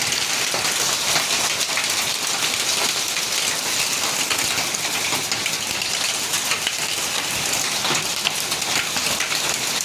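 Heavy rain mixed with hail pelting down: a dense, steady hiss with many small sharp hits of stones striking surfaces.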